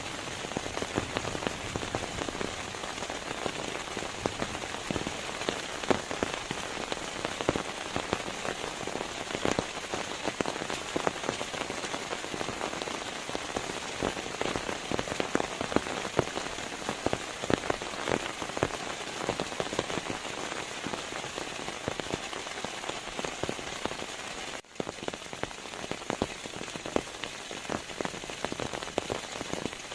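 Steady rain, with many drops pattering on a surface. There is a brief gap about three-quarters of the way through.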